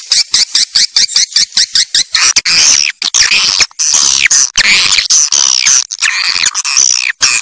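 Swiftlet calls: a run of rapid, dry clicking chirps, about six or seven a second, that turns about two seconds in into a dense, shrill twittering of short, bending high notes.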